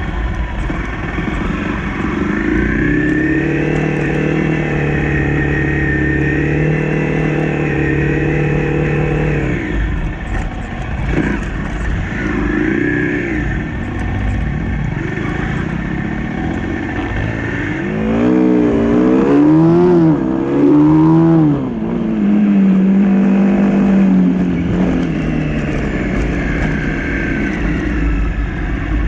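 Honda CRF250 dirt bike's single-cylinder four-stroke engine under way on a trail: held at a steady pitch for several seconds, then revved up and down in a run of quick throttle blips about two-thirds in, then steady again.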